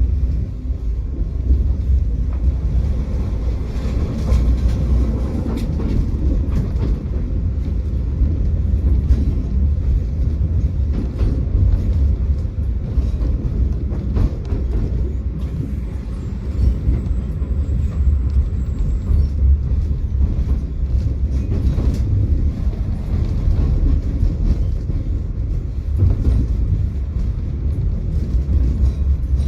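Tram running along its rails: a steady low rumble of wheels and running gear, with a few light clicks scattered through it.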